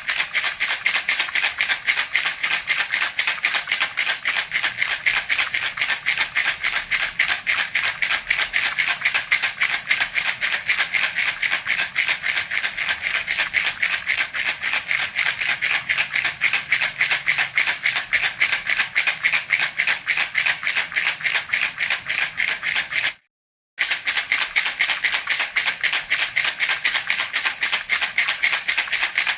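Baby rattle (jhunjhuna) shaken continuously in a quick, even rhythm, giving a steady bright rattle. It drops out for about half a second roughly three-quarters of the way through, then carries on.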